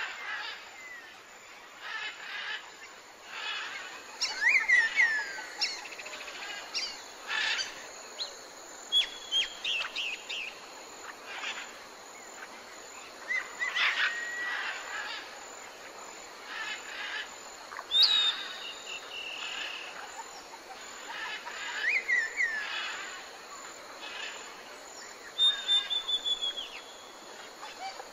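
Wild birds chirping and calling in short bursts of quick notes and falling whistles, over a steady high-pitched background tone.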